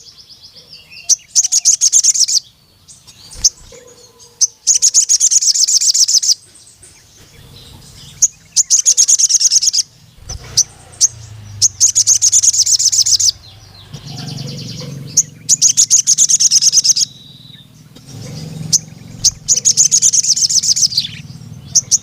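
Sogon sunbird singing: six fast, high trills of one to two seconds each, repeated every couple of seconds, with single sharp chirps between.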